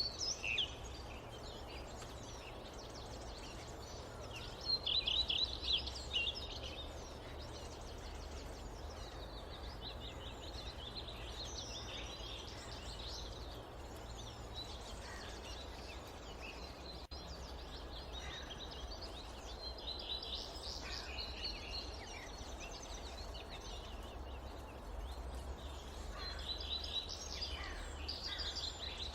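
Forest birds calling in bursts of quick, high chirping notes every few seconds, over a steady low rumble of background noise.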